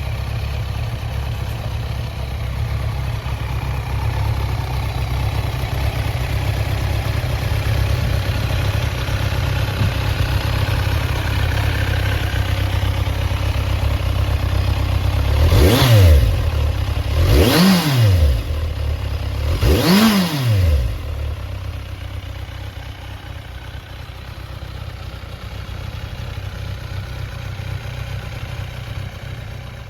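Kawasaki Z1000's inline-four engine idling steadily, revved three times in quick succession about halfway through, each rev rising and dropping back to idle.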